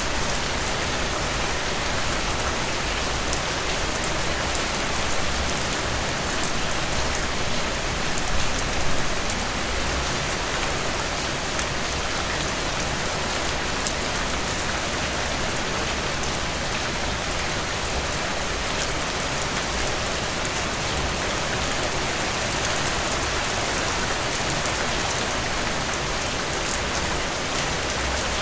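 Steady rainfall with fine drops pattering on a surface, slightly heavier for a moment around eight seconds in.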